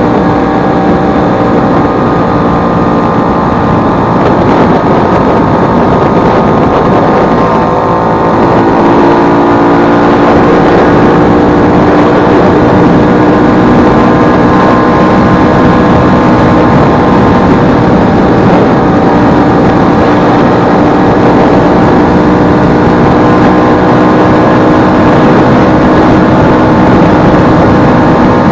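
Vespa 150's two-stroke single-cylinder engine running steadily, its pitch rising between about four and nine seconds in, then holding. This is the engine freshly repaired after its elastic pinion broke.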